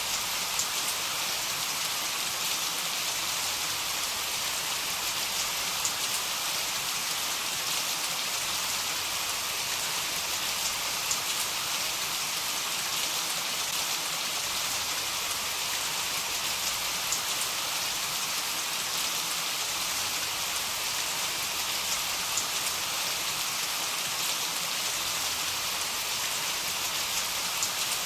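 Heavy rain falling steadily: an even hiss with scattered drop ticks, and no thunder.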